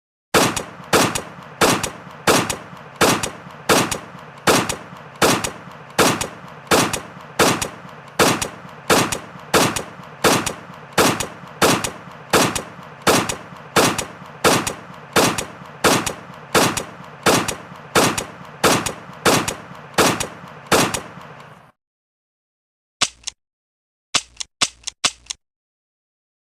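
Gunshot sound effect: single shots fired at a steady pace, about one and a half a second, for some twenty seconds before stopping. After a short pause, one click and then a quick run of about five short clicks.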